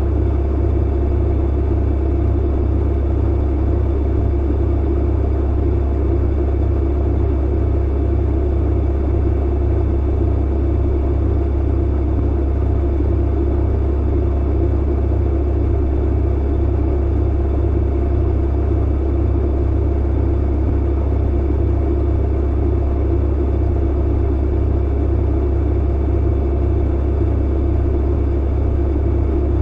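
Clothes dryer running: a steady low hum and rumble of the motor and drum, unchanging throughout.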